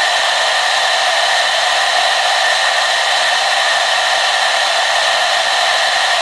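Hair dryer running continuously: a steady, even rush of air and motor whine, with nothing starting, stopping or changing.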